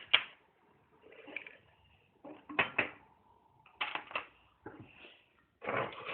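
A series of sharp knocks and short clatters, most coming in quick pairs, about one every second or so.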